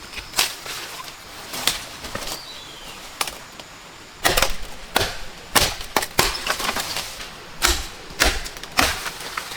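Wood being chopped or struck with a blade: about a dozen sharp, irregularly spaced strikes, louder and heavier from about halfway through, some with a deep thud.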